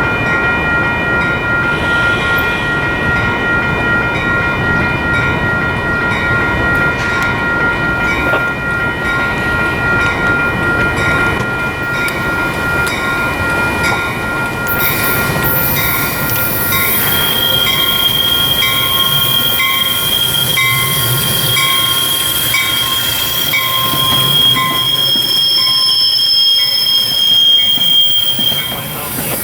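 Metra commuter train rolling slowly through the station tracks, its steel wheels squealing on the curves in several steady high tones. About halfway through, a higher squeal joins in, along with an even clicking of wheels over rail joints.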